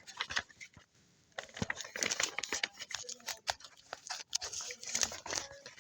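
Irregular close rustling and crinkling with scattered clicks, with a brief lull about a second in.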